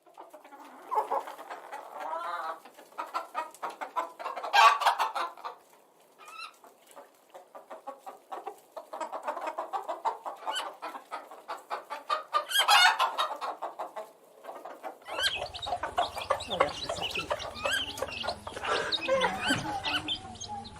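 Hens clucking, with two louder calls about 4.5 and 13 seconds in; about 15 seconds in the sound becomes fuller and busier, as a second recording of clucking hens takes over.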